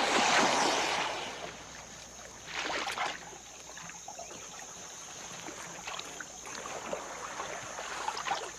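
Paddle strokes through swamp water from a small boat: a loud swish in the first second and a second one about two and a half seconds in, followed by softer dripping and crackling water sounds. A steady high-pitched hiss runs underneath.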